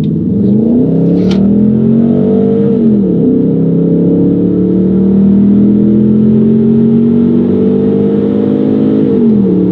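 BMW X5 E53's 4.4-litre V8, running with its muffler deleted and some catalytic converters missing, accelerating hard and heard from inside the cabin. The engine note rises quickly and drops at a gear change about three seconds in. It then climbs more slowly and drops at a second gear change near the end.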